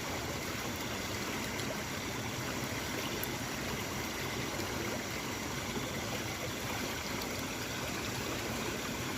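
Steady rush of a small river's running water.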